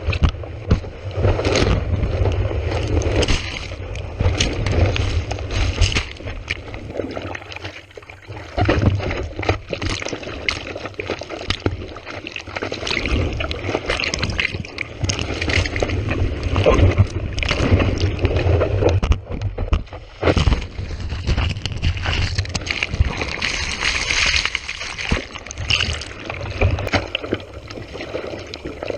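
Sea water splashing and sloshing right at a GoPro action camera while surfing, in irregular splashes over a constant low rumble.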